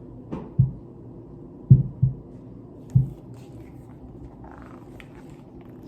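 A few soft, low thumps, about five in the first three seconds, over a steady faint hum.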